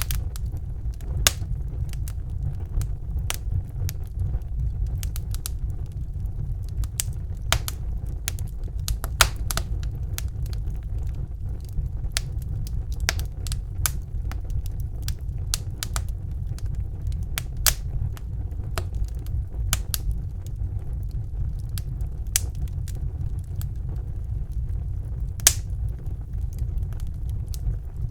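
Wood fire burning in a fireplace: a steady low roar of the flames with frequent irregular crackles and pops, a few of them sharper and louder.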